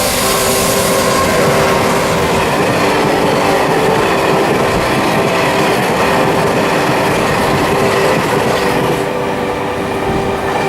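Freight train of tank wagons hauled by an EH200 electric locomotive running past, wheels rolling and clattering on the rails, loud and steady, with a steady hum under it.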